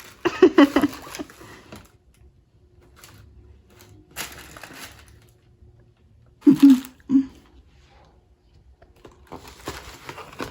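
Gift packaging crinkling and rustling as it is handled and opened, in a few separate bursts.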